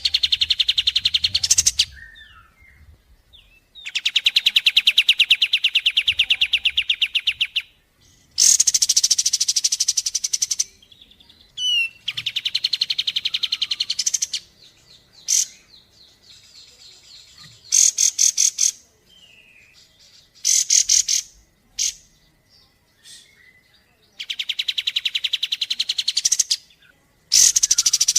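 Recorded bird calls: rapid, high-pitched trills, each lasting two to four seconds, repeated about half a dozen times with short pauses, and brief chirps and rattles in between.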